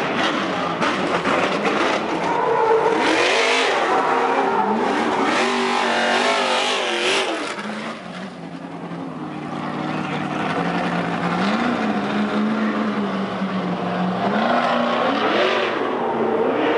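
Trophy truck engines revving, the pitch rising and falling repeatedly; the sound eases about eight seconds in, settles into a steadier note, then revs up and down again near the end.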